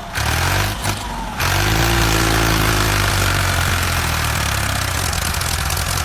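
A small engine running steadily, getting louder about a second and a half in.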